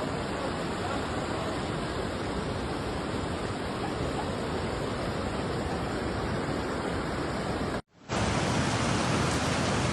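Rushing floodwater, a steady roar of fast-flowing water. It breaks off briefly about eight seconds in, then resumes a little louder.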